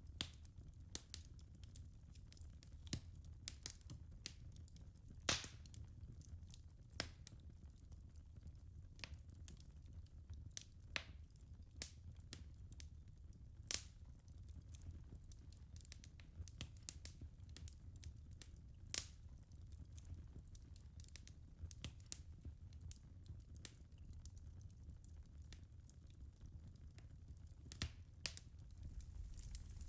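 Faint wood fire crackling in a fireplace: irregular sharp pops and snaps over a low steady rumble, the loudest pop about five seconds in.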